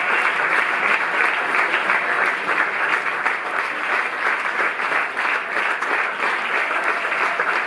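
Audience applauding steadily after a concert, dense clapping throughout.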